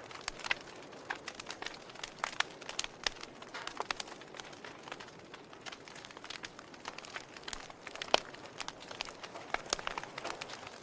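Fire crackling, with many irregular sharp snaps and pops over a soft steady hiss and one louder pop about eight seconds in.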